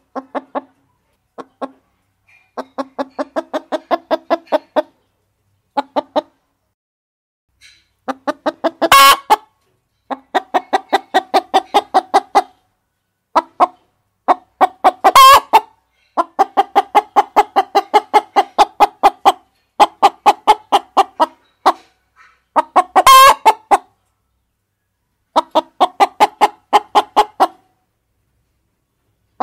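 Hens clucking in runs of rapid, evenly spaced clucks, each run a few seconds long, with a louder, harsher call breaking in about every six to eight seconds.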